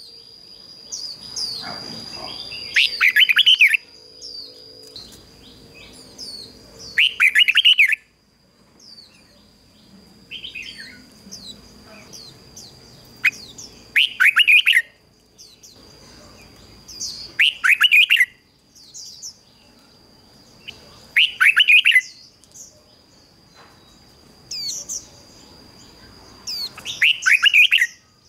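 Red-whiskered bulbul singing: six loud short phrases of quick, fluty notes a few seconds apart, with softer chirps between them. A steady high-pitched whine runs faintly underneath.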